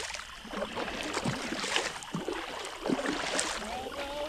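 Kayak paddle strokes splashing and dipping in the water, in an uneven run.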